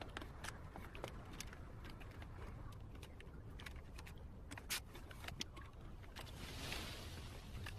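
Faint, scattered light clicks and ticks over low background noise, with a soft hiss swelling briefly near the end.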